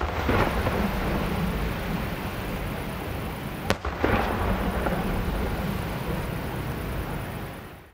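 Aerial fireworks shells bursting: a sharp bang at the start and another about four seconds in, each followed by a longer spell of crackling and rumble.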